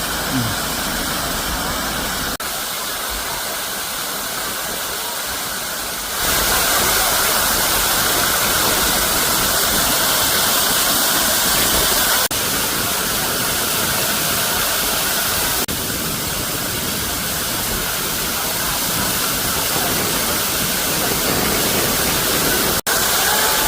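Waterfall rushing: a steady roar of falling water. The level jumps abruptly a few times, loudest from about six seconds in.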